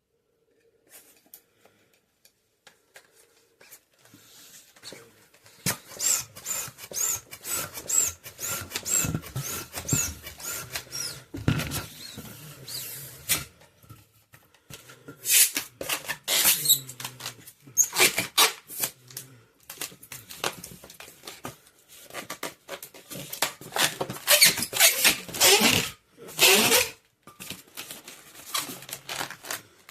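Latex twisting balloons squeaking and rubbing as they are handled and twisted, in bursts of high, scratchy squeaks with short pauses between.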